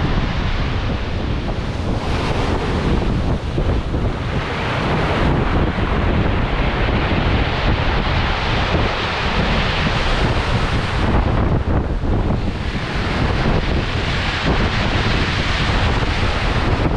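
Strong wind buffeting the microphone, with a rushing noise that swells and eases every few seconds.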